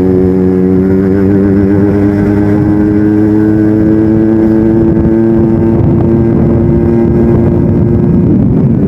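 Yamaha RX-King's two-stroke single-cylinder engine running through its stock exhaust, held at a steady pitch while ridden; the pitch shifts slightly about eight seconds in.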